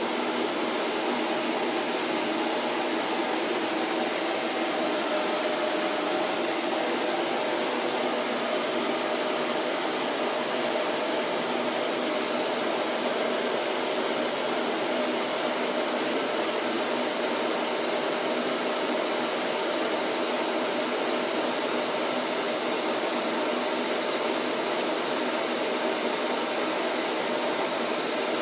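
Vacuum cleaner motor running at a constant speed, a steady whooshing drone with a faint hum in it.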